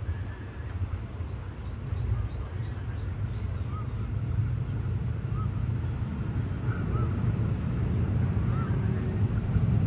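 Low rumble of a train approaching from a distance, growing steadily louder, with birds calling: a quick run of about seven high descending chirps in the first few seconds, and a short rising note repeated about every second and a half.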